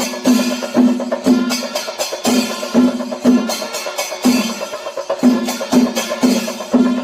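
Kerala temple percussion ensemble of the chenda melam kind: drums struck in a steady pulse about twice a second with a pitched thud, over rapid sharp stick strokes and clashing cymbals.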